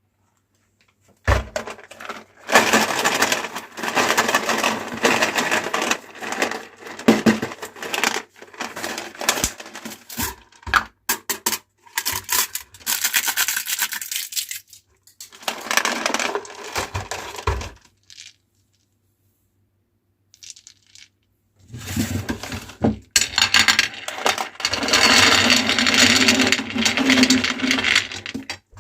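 Meat grinder crushing hard candy balls: long runs of cracking, crunching and rattling over a low hum, pausing for a few seconds about two-thirds of the way through.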